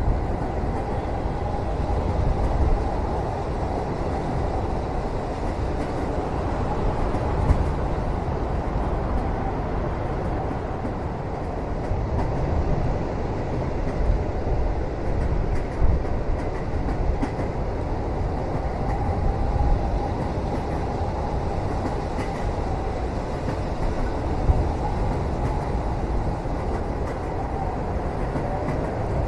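Train carriage interior as heard in a moving train cabin: a steady low rumble of the car running on the rails, with a few light knocks.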